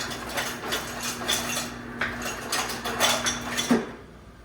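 Kitchenware clattering and clinking, a quick run of hard knocks, with a steady hum beneath that cuts off suddenly near the end.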